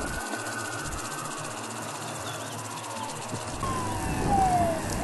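Emergency vehicle siren wailing, slowly rising and falling in pitch, louder near the end with a falling sweep, over a steady high hiss.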